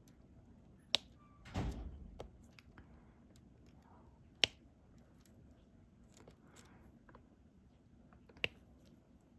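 Small, sharp clicks of diamond painting work: the stylus and resin drills tapping on the plastic drill tray and canvas. Three louder clicks come about a second in, midway and near the end, with a short rustling knock just after the first and fainter ticks in between.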